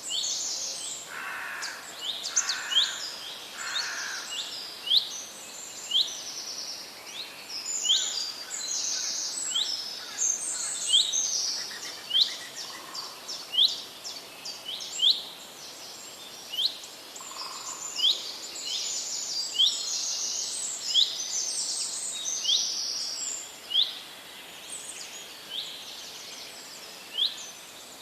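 Several wild birds singing at once: a dense run of short, sharp high chirps repeating every fraction of a second to a second, over a steady outdoor hiss. Three lower calls sound in the first few seconds, and a few soft low notes come later.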